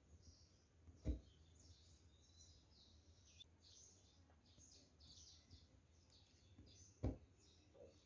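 Faint chirping of small birds in the background, with a low hum and two dull thumps, about a second in and again about six seconds later.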